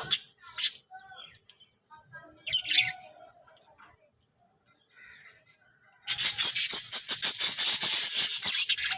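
Budgerigars calling: a short squawk just after the start, a brief chirp about two and a half seconds in, then about three seconds of rapid, harsh chattering from about six seconds in.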